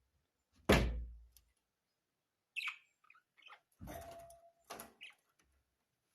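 A heavy thump about a second in, then a brief high chirp from a budgerigar and a few shorter knocks and scrapes.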